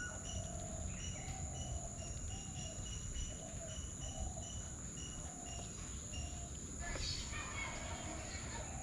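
Outdoor bird ambience: a short call repeats about twice a second, and the chirping grows busier from about seven seconds in. Under it run a steady high-pitched insect drone and a low background rumble.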